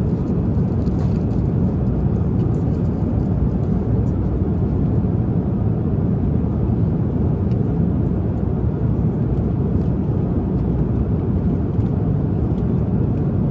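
Steady low drone of an airliner cabin in flight, with a few faint light ticks over it.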